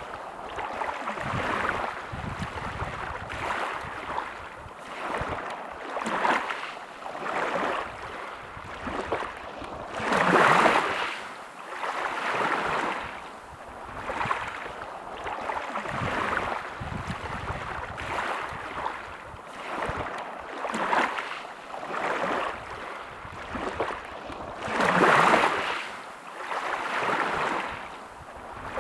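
Sea waves washing onto a shore in repeated surges every second or two, with two bigger waves breaking about a third of the way in and again near the end.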